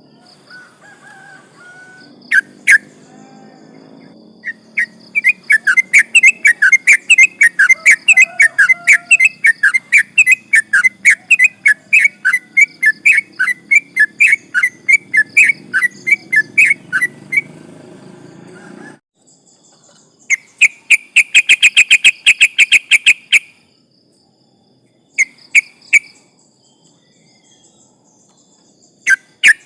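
Yellow-vented bulbul singing: a long, loud run of rapidly repeated chattering notes, about five a second, lasting some twelve seconds, followed by a shorter run and a few brief bursts.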